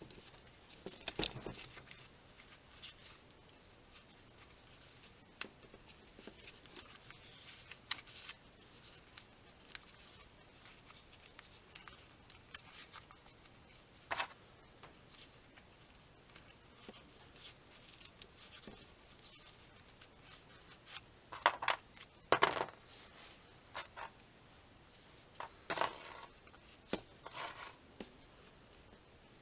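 Faint scattered rustles and light clicks of polyester fiberfill being pushed by hand into a Koss Pro4AA headphone ear pad, with louder clusters about 21 seconds in and again around 26 seconds.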